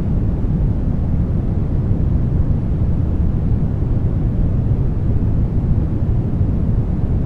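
Brown noise: a steady, deep rushing hiss, heaviest in the bass and thinning towards the highs, unchanging throughout.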